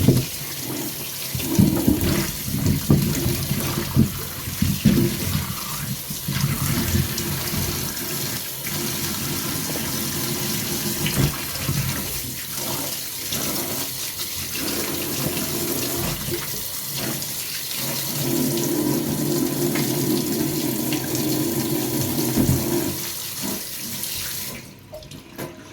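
Kitchen tap running into a sink as cut pumpkin is washed, with scattered knocks from the pieces being handled. The water stops about a second before the end.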